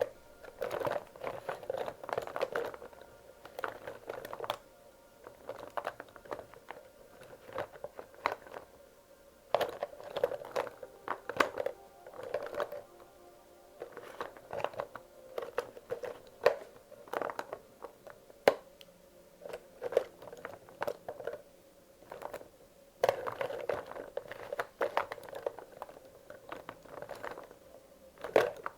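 Wax crayons being sorted by hand: loose crayons clicking and rattling against one another as they are picked up and moved, in irregular bursts with short pauses.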